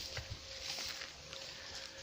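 Quiet outdoor background noise with a faint steady tone and a few soft clicks.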